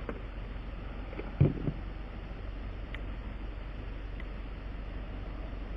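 Steady low mechanical hum with a noisy rush, and one short, loud clunk about one and a half seconds in, followed by a couple of faint clicks.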